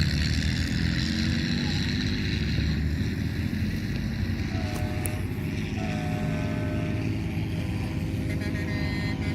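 Heavy truck engines running in a steady, low drone.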